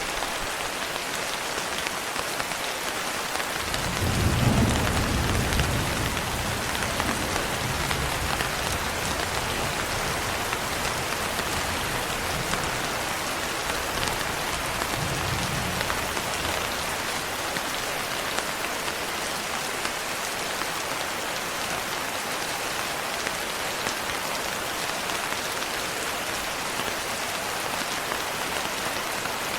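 Steady rain pattering on a window, with a low roll of thunder starting about four seconds in, loudest at first and rumbling on until it fades out at about seventeen seconds.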